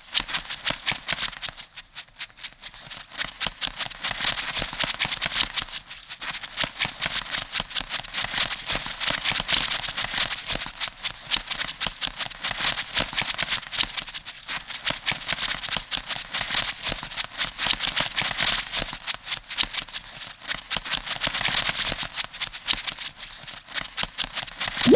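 Crab sound effect: a dense run of rapid clicking and rattling, dipping briefly about two seconds in and again about six seconds in.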